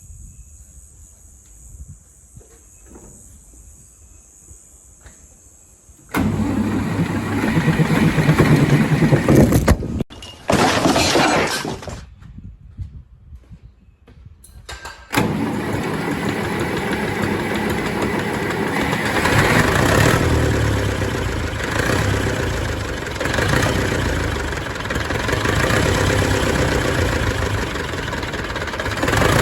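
Zetor 440 tractor's diesel engine being started after its injection pump repair: it runs for a few seconds about six seconds in, stops after a short loud hiss, then starts again about halfway through and keeps running steadily.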